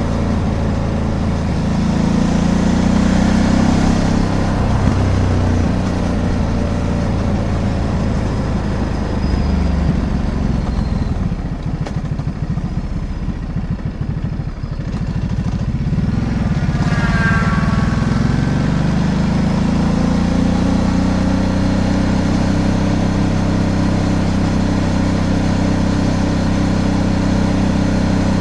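Ducati DesertX Rally's 937 cc Testastretta V-twin running under way. It pulls hard for the first few seconds, then eases off and quietens in the middle, picks up again with rising pitch about 17 seconds in, and settles into a steady cruise.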